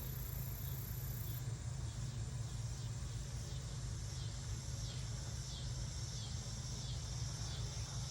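Outdoor ambience: insects chirping in an even, repeating pulse over a low steady hum.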